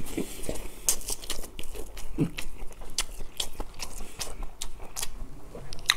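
Close-miked wet chewing and biting of soy-sauce marinated raw crab (ganjang gejang), with many sharp, irregular clicks and crunches.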